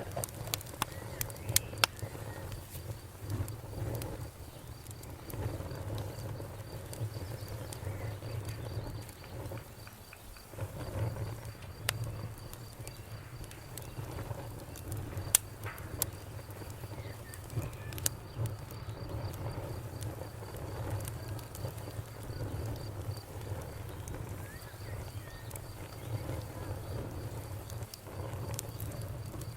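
Campfire burning: a low steady rumble of flames with sharp crackles and pops of burning wood scattered throughout, a few louder pops near the start and about fifteen seconds in. A faint high steady trill runs underneath.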